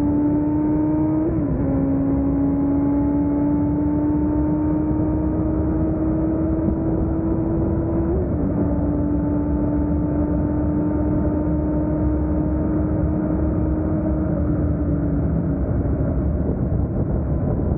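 Kawasaki ZX-7R's 750 cc inline-four engine, fitted with an Akrapovic exhaust, running at sustained high revs. Its pitch creeps slowly upward, with two brief dips about a second and eight seconds in.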